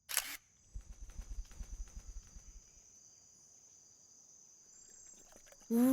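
Background of steadily chirring crickets, opening with a short burst of noise. For about two seconds near the start there is a quick run of low thuds.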